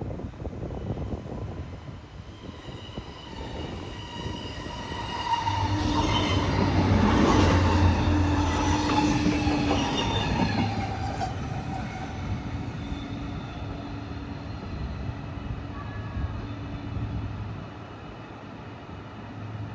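Train passing through the station: its rumble swells to a peak about six to ten seconds in and then eases off, with steady whining tones over it.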